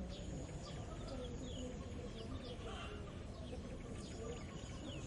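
Countryside morning birdsong: many small birds chirping and calling with short, quick falling notes, over a steady low rumble.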